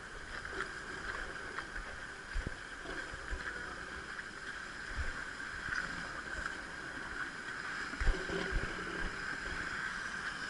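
Steady sea noise of waves washing against the rocks, with a few dull knocks, the loudest about eight seconds in.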